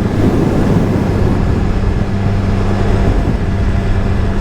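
BMW S1000RR inline-four engine running at a steady, unchanging pitch while riding, mixed with the rush of wind over the helmet-mounted camera's microphone.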